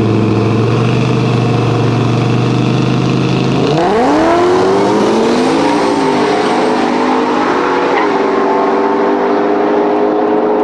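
Drag race car engine held at a steady pitch, then launching about a third of the way in: the pitch climbs sharply and then holds high, with a couple of small steps, as the car pulls down the track.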